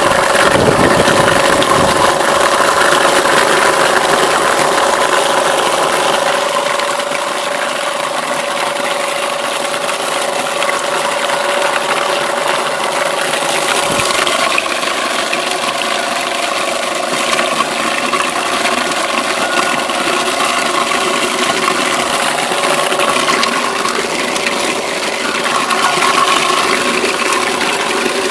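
Homemade apple crusher, driven by a Zarya 2M washing-machine motor, running steadily: a constant hum under the noise of apples being shredded.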